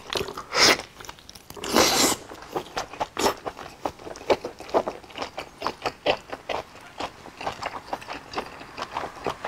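Close-miked eating sounds: chewing and biting, with short crackling strokes as food is pulled apart by hand. Two louder bursts come in the first two seconds, then a quick run of small clicks and crunches.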